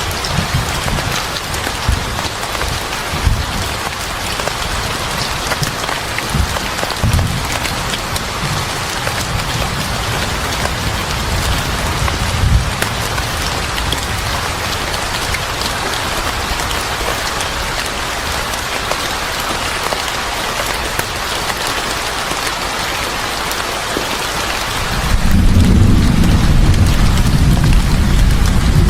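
Steady heavy rain with thunder rumbling low in the first half. About three-quarters of the way through, a deeper, louder rumble comes in suddenly and carries on to the end.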